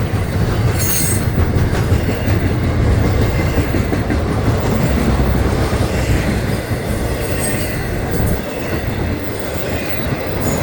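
Florida East Coast Railway freight train rolling past close by: a steady, loud rumble of the cars with the wheels clattering over the rails.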